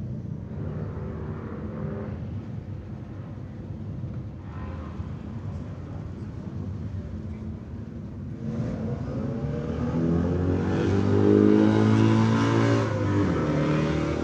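Motorcycle engine running, getting louder about two-thirds of the way in, with its pitch rising and falling as it is revved.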